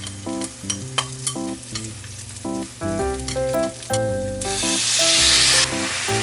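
Food sizzling in a hot frying pan, with a loud burst of sizzling about four and a half seconds in that then settles to a steadier hiss. Light background music plays throughout.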